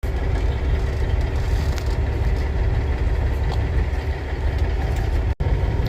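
Semi truck's diesel engine idling, a steady low rumble that drops out for an instant about five seconds in.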